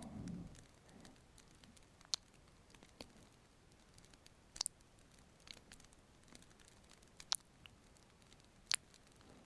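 Fireplace fire crackling softly: sparse, irregular sharp pops and snaps over a faint hiss.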